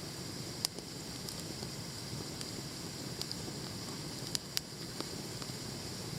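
Wood campfire burning with a steady hiss and crackle, broken by a few sharp pops, one about half a second in and a quick pair about four seconds in.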